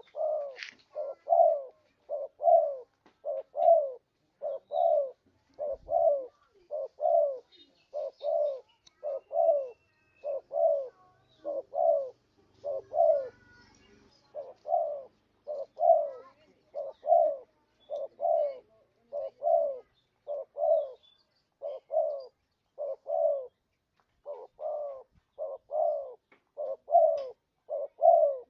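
Spotted dove (tekukur) cooing: a long, unbroken series of short low coos, each dipping slightly in pitch, repeated roughly once or twice a second, as used to lure wild doves.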